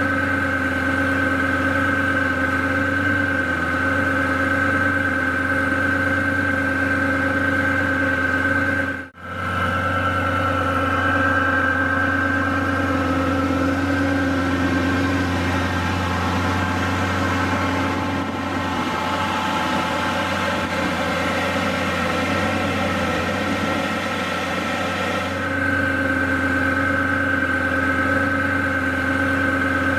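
Twin-turbo Lamborghini Gallardo Spyder V10, an Underground Racing conversion, idling steadily, with a brief break in the sound about nine seconds in.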